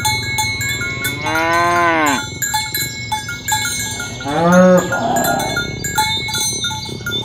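Cattle mooing twice, two drawn-out calls that rise and fall in pitch, with light bell-like tinkling throughout.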